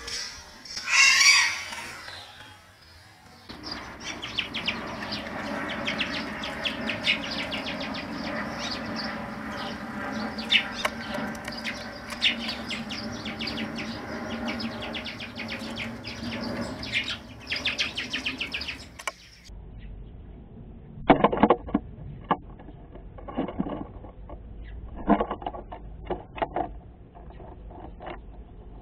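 Small birds chirping in quick runs of calls around a wooden nest box, with a loud burst of wing flapping about a second in. A little past halfway the chirping stops abruptly, and a few separate sharp knocks and short calls follow as birds land and shift on the box.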